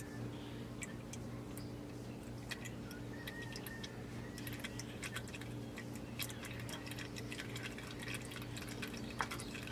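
Used engine oil dripping into a drain pan: an irregular patter of small ticks that grows denser after about four and a half seconds, over a steady low hum.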